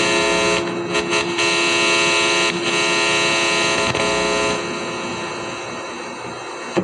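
Experimental drone music: a dense, steady stack of sustained buzzing electronic tones over a hum. The high end cuts out briefly a few times, and the whole thing fades a little toward the end.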